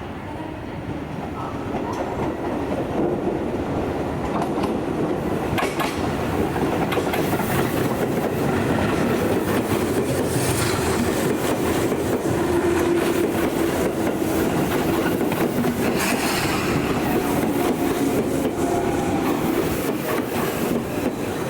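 Tobu Tojo Line electric commuter train passing, growing louder over the first several seconds, its wheels clicking over the rail joints.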